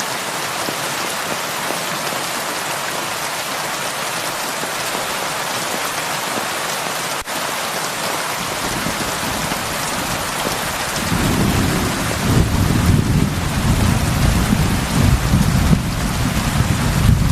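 Heavy rain falling in a steady hiss. About eleven seconds in, a long low rumble of thunder comes in and keeps swelling, louder than the rain.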